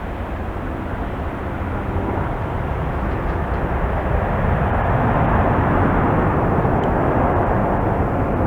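Jet noise from a Boeing 777F's two GE90 turbofan engines at takeoff power, a steady rushing sound that grows gradually louder as the freighter comes nearer.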